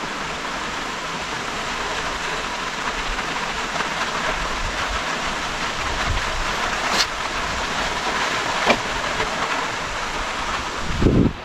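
Steady rush of water at a dam, an even hiss. Two sharp clicks partway through and a low bump near the end, after which the rushing cuts off.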